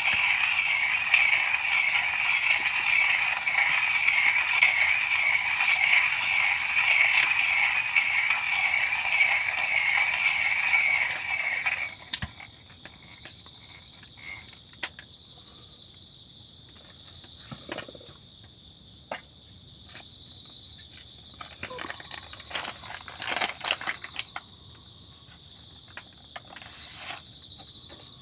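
Hand-cranked coffee mill grinding beans, a loud, steady rasping rattle that stops suddenly about twelve seconds in, followed by a knock. After it, crickets chirp steadily with scattered small clicks.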